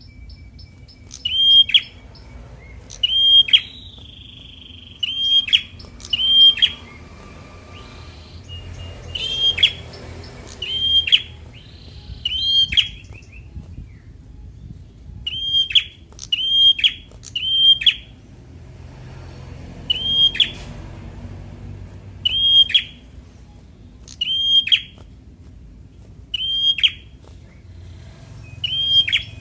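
Young prenjak semi calling: a short, sharp note that drops in pitch, repeated about every one to two seconds.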